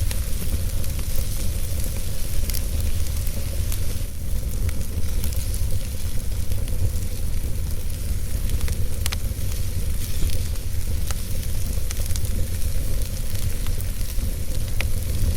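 Wood fire burning in a fireplace: a steady low rumble and hiss of the flames, with sharp crackles and pops every second or two.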